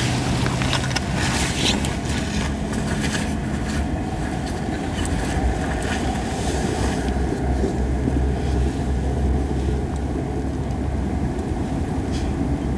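Crape myrtle wood burning in an open fire, hissing strongly, with a few crackles in the first few seconds and again near the end. It barely pops and hisses the way green wood does: the wood still holds moisture. A steady low rumble runs underneath.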